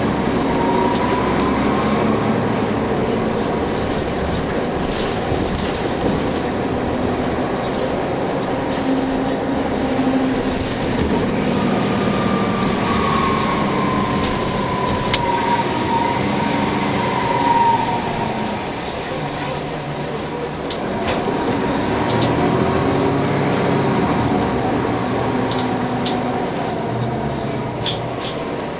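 NovaBus low-floor city bus driving in service: its engine and drivetrain run steadily, changing pitch as it speeds up and slows, with a whine that rises and then slowly falls in the middle and a few light clicks and rattles.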